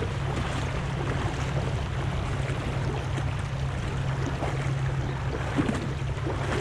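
Steady rush of flowing creek water, with low wind rumble on the microphone and a few faint ticks.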